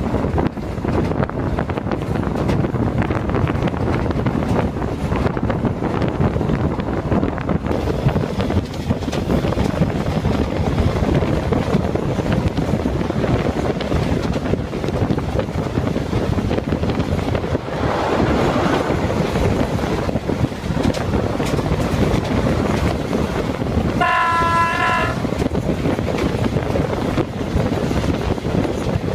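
Alsthom diesel-electric locomotive hauling a train: steady running noise of the wheels on the rails, mixed with wind. Near the end its horn sounds once as a chord, for about a second.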